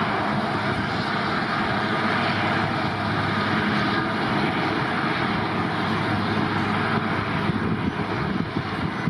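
Airliner engines running at a steady level: an even rushing noise with a faint low hum underneath.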